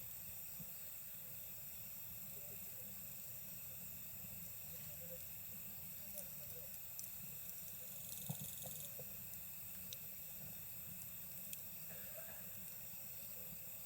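Campfire crackling with a few scattered sharp pops, the loudest about eight seconds in, over a steady chorus of night insects; one insect gives a short rapid trill around the same time.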